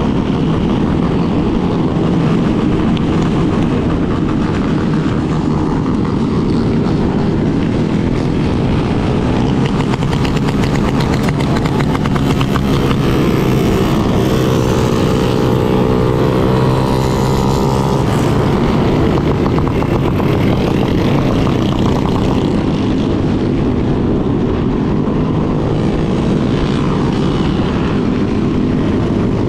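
Yamaha Lander 250's single-cylinder engine running steadily while riding. Around the middle, a second engine note rises and falls in pitch.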